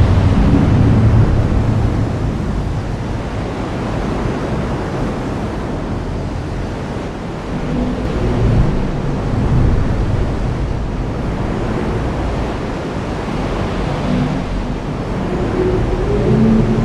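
Heavy rain pouring steadily. Low rumbles swell up near the start, again around the middle, and near the end.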